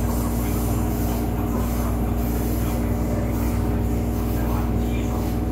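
Refurbished MTR East Rail Line electric train running at a steady pace: a continuous low rumble of wheels on track under a constant motor hum.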